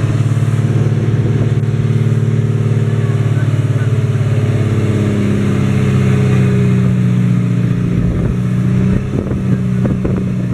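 Pump boat engine running steadily, heard from on board; its note drops a little about halfway through.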